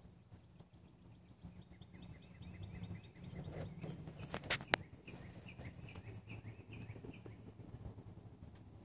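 Bird calls: runs of short, rapid chirps repeated several times over, with one sharp click about four and a half seconds in.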